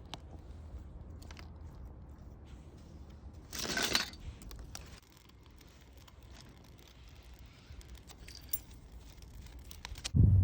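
Campfire burning with scattered small clicks and pops, and a brief louder clatter about three and a half seconds in.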